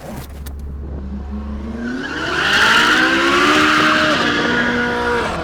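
Ferrari 458 Speciale's naturally aspirated V8 through a Novitec sport exhaust, accelerating hard. The engine note climbs in pitch about two seconds in, holds high with a loud rush of noise over it, then falls away near the end.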